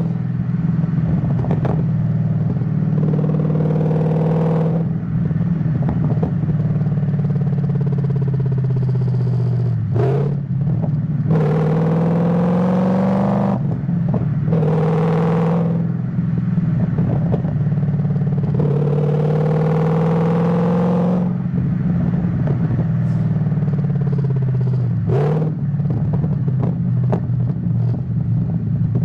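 Ford Mustang GT S197 V8 running under way, its engine note climbing slowly and then dropping sharply several times as gears are changed on the manual gearbox. The note swells louder in several stretches where the throttle is opened.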